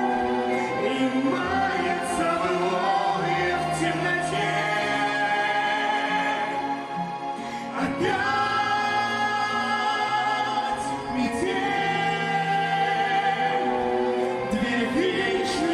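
A female and a male singer singing a duet together over instrumental accompaniment, holding long notes.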